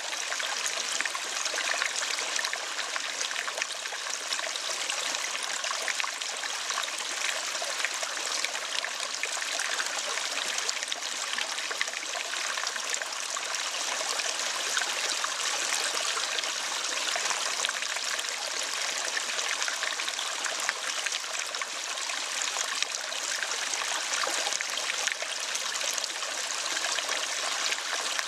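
Steady running water of a stream, a continuous even rush with no bird calls over it.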